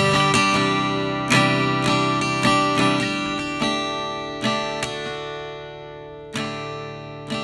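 Intro music: acoustic guitar strummed and picked, chords ringing out and fading, with fresh strums about once a second.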